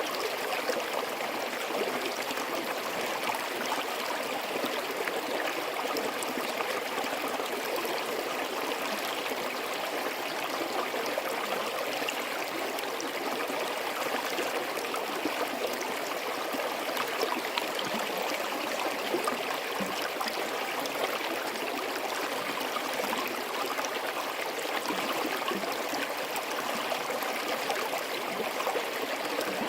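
Forest stream flowing steadily: a continuous, even rush of running water over rocks.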